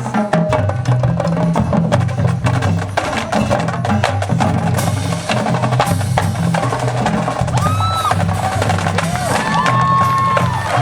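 Marching band playing, with drumline and other percussion striking busily over sustained low brass notes.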